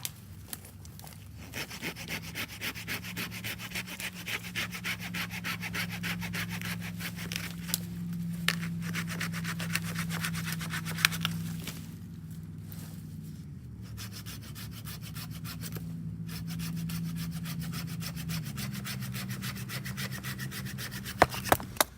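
Hand saw cutting through wood (bucking firewood), a steady run of rasping strokes broken by a few short pauses.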